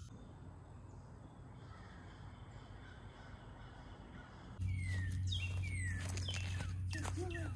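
Faint outdoor background noise, then about halfway in a steady low hum starts with a bird calling over and over in short calls that slide down in pitch.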